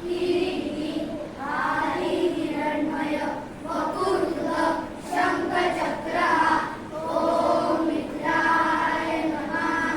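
A group of children chanting together in unison, in phrases of long held notes.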